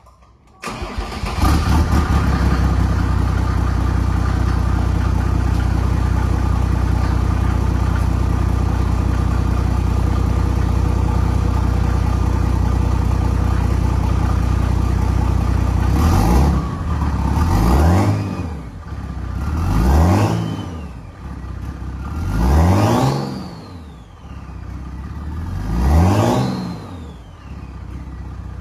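Mercedes-Benz OM606 inline-six diesel, fitted with a BorgWarner S200SXE turbo and a 3-inch stainless turbo-back exhaust, idling steadily after coming in abruptly about half a second in. In the last twelve seconds it is revved about five times, and on the higher revs a whistle rises and falls with each blip: the turbo spooling up.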